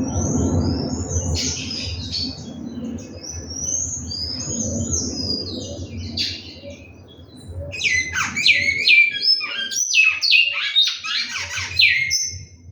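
Great-billed seed-finch (bicudo) singing: a run of clear whistled notes sliding in pitch, which becomes a louder, faster phrase of down-sweeping notes about two-thirds of the way through. A low rumble sits under the first half.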